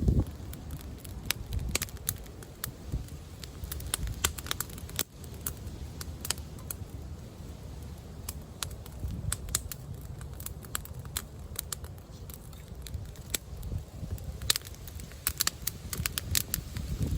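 Campfire crackling, with sharp irregular snaps throughout, busiest near the end, over a low rumble of wind on the microphone.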